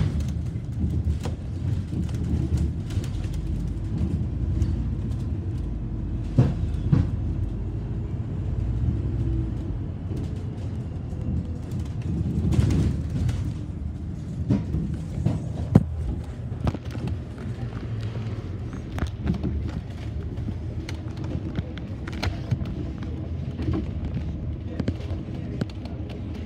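A London bus in motion: a steady low rumble of engine and road, with scattered rattles and knocks, the sharpest about six, thirteen and sixteen seconds in.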